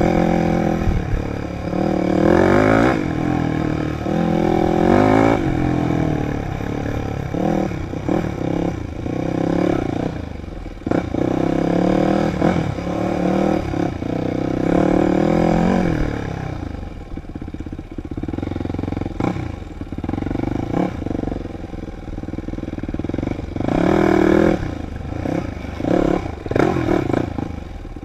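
Dirt bike engine being ridden hard off-road, its pitch rising and falling again and again as the throttle opens and closes. It runs lower for a stretch past the middle, then opens up again near the end.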